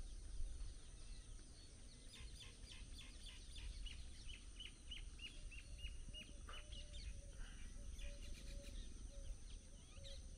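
Faint morning birdsong outdoors: one bird repeats a short, falling, high note about three times a second for around five seconds, with other scattered bird calls after it.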